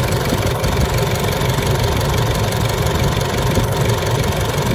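Isuzu D-Max common-rail diesel engine idling steadily, with its fuel filter assembly and high-pressure suction valve freshly replaced and fuel rail pressure holding at around 300 bar instead of swinging between 200 and 700 bar.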